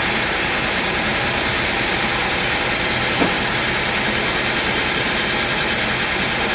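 Sawmill machinery running steadily, an engine-like drone with a hiss, with no wood being cut at the moment. A single short knock sounds about three seconds in.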